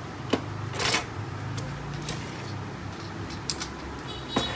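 Plastic printer cover parts being handled and pushed into place: a few light clicks and knocks with a short scrape about a second in, over a steady low hum.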